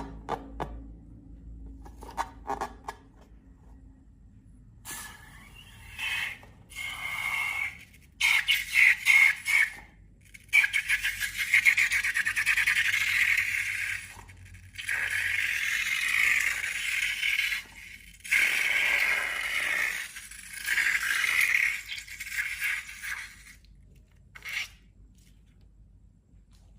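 Slime being worked by hand, crackling and scraping in bursts of a few seconds with short pauses between them, after a few sharp clicks at the start.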